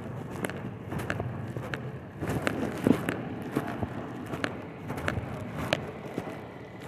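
Handling noise on a body-worn camera: irregular clicks and rubbing over a low rumble, with one louder knock just before the middle.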